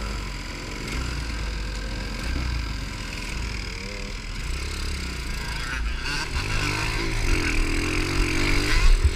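Pit bike engine running while being ridden over a steady low rumble. The engine note rises and wavers and grows louder in the last few seconds as it revs up.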